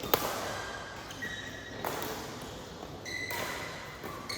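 Badminton rally: a sharp racket-on-shuttlecock smack just after the start, then further hits about two and three seconds in. Short high squeaks of shoes on the court floor come between them.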